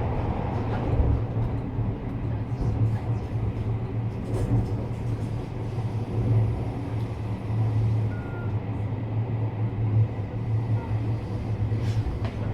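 Inside a JR West 321 series electric train running at steady speed: a constant low rumble of wheels on rail and running gear, with a few faint clicks.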